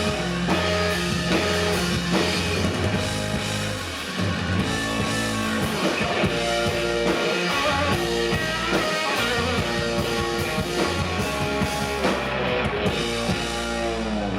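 Live rock band playing with electric guitar and drum kit: a steady beat under sustained guitar notes, loud throughout.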